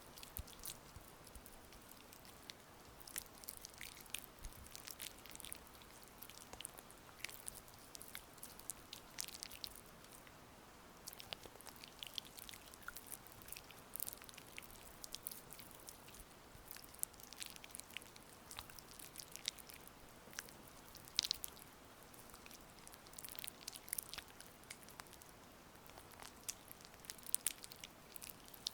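Oiled hands massaging skin, making irregular soft, wet, sticky clicks and smacks of slippery fingers, over a faint steady hiss of rain.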